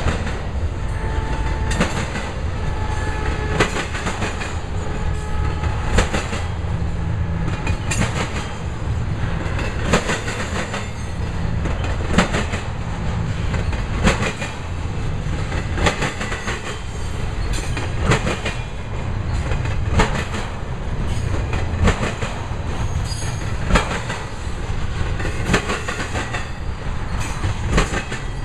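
Intermodal freight cars loaded with trailers and containers rolling past at speed: a steady low rumble with sharp wheel clicks over rail joints about every two seconds.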